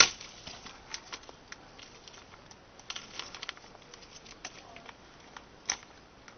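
A sharp knock right at the start, then scattered light clicks and short rustles.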